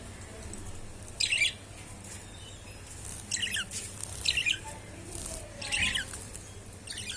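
Budgerigars giving short, scratchy squawks, about five in all spaced a second or so apart.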